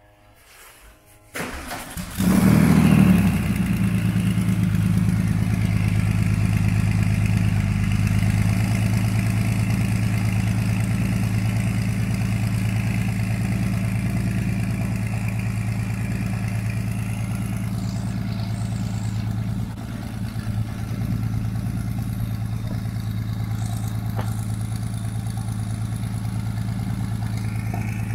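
Porsche 993 Carrera 4S's air-cooled 3.6-litre flat-six, built with twin Garrett turbochargers in place of the mufflers, started out of storage: the starter cranks about a second in, the engine catches with a brief flare of revs, then settles into a steady, loud idle.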